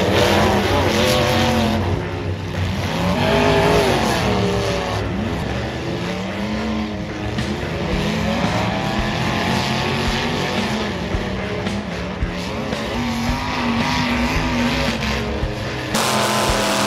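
Demolition derby car engines revving hard, their pitch rising and falling over and over as the cars push and spin their wheels.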